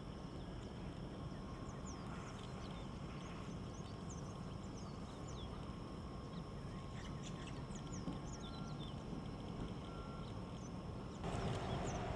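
Small birds chirping in quick, scattered short notes over a steady low rumble of outdoor background noise. About eleven seconds in, a louder, steady midrange noise comes in and sits under the birds.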